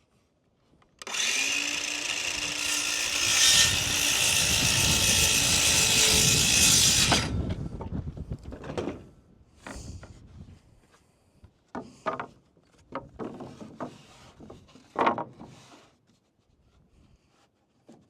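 A power tool working into wood for about six seconds, then a string of scattered knocks and taps on lumber.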